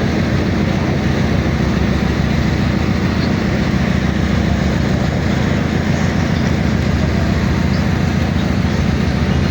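A boat's engine running steadily: a constant low rumble with a held hum, under the rush of wind and water.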